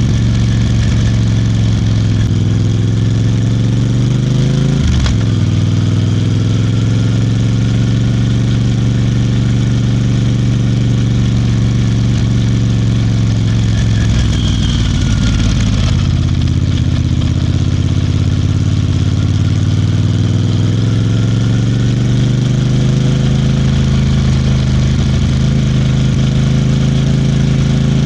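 Royal Enfield Bear 650's 648 cc parallel-twin engine running steadily while the motorcycle is ridden. Its note dips briefly about five seconds in, and again around fifteen seconds in, then climbs back.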